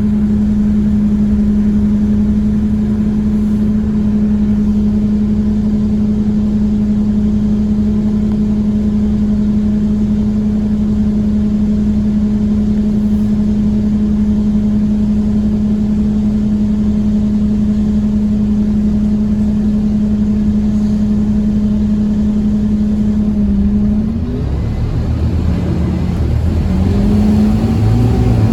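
Scania OmniCity bus engine heard from on board, running at steady revs at cruising speed. Near the end the engine note dips and then climbs again as the bus pulls on.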